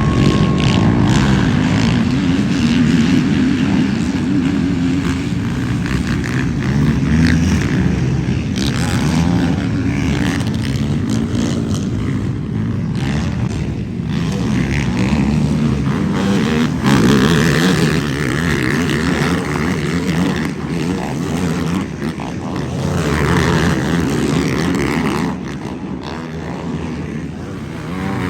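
Racing quads (ATVs) running hard on a motocross track, several engines revving and their pitch rising and falling as they accelerate and back off.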